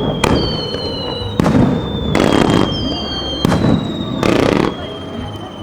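Fireworks bursting: three sharp bangs and two longer crackling bursts. After each bang comes a high whistle that slowly falls in pitch.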